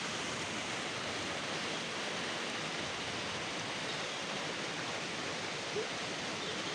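Steady, even hiss of a hailstorm pouring down.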